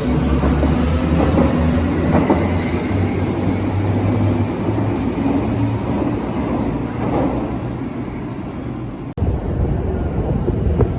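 Berlin U-Bahn large-profile train running on the track: a steady rumble of wheels and running gear, with a faint whine rising in pitch over the first few seconds. The sound breaks off for an instant a little after nine seconds and resumes.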